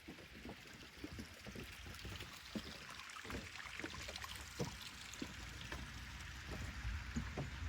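Footsteps, about one or two a second, over a steady hiss and a low rumble.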